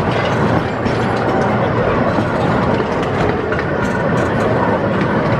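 Park ride train running along its narrow-gauge track, heard from on board: a steady rumble of wheels on rails with faint clicking.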